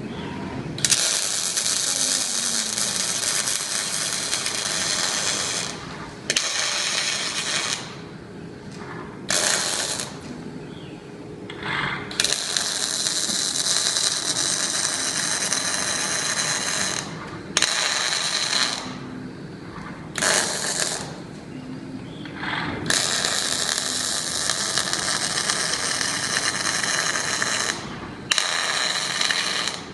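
Robotic arc welder's arc crackling and hissing in runs of one to five seconds, stopping briefly between runs as each weld bead ends and the next begins.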